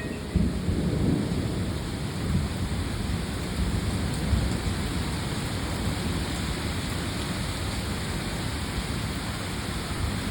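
Heavy rain pouring down steadily, with low rumbles of thunder swelling underneath.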